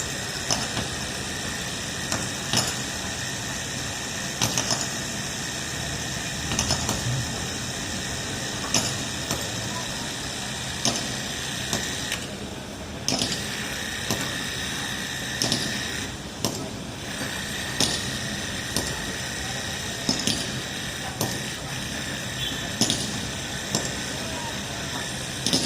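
Hand-pump tubewell being worked, its handle and plunger mechanism clanking with each stroke, about once every two seconds.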